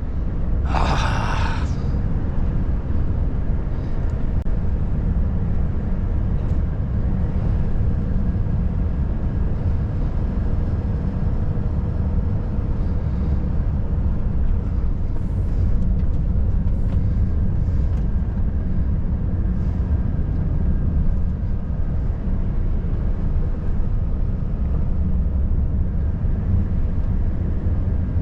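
Volvo FH540 truck's 13-litre straight-six diesel engine running steadily under way, with road and tyre rumble: a steady low drone. A short hiss comes about a second in.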